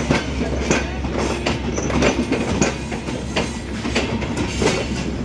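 Chinese-built passenger coaches of an intercity train rolling past close by: a steady rumble of wheels on rail, with irregular clicks and knocks as the wheels cross rail joints.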